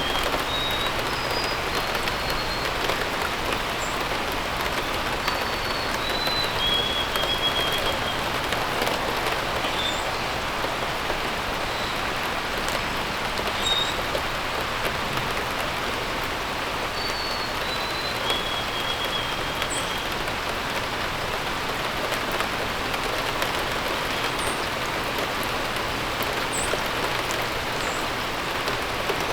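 Steady rain falling, with a bird singing a short whistled phrase of a few stepping notes ending on a held note, a few times over, and occasional brief high chirps.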